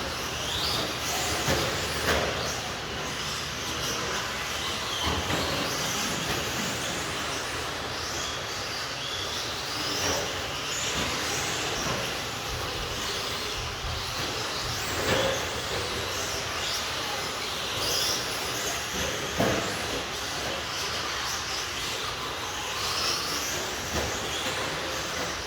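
RC stadium trucks racing on a track: high motor whines rise and fall as the trucks accelerate and brake over a steady running noise, with sharp knocks every few seconds.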